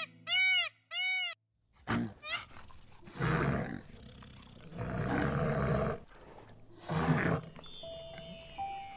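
An animal's calls: a few short rising-and-falling pitched calls in the first second, then, after a pause, a series of rough roaring calls, each up to about a second long.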